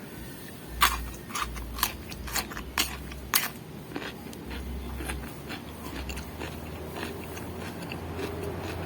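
Crisp crunching bites into raw vegetables, about six sharp snaps in the first three and a half seconds, then quieter chewing.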